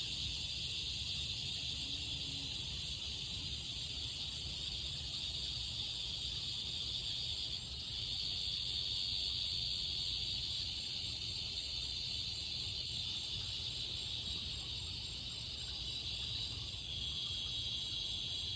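Chorus of cicadas singing: a steady, high buzzing drone that dips briefly about eight seconds in.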